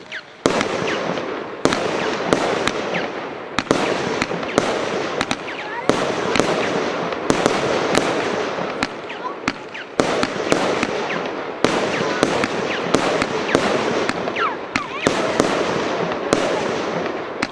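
Argento Leviathan 100-shot compound fireworks cake firing: a fast string of sharp shots and bursts, about one or two strong bangs a second, over dense crackling, with a few short falling whistles.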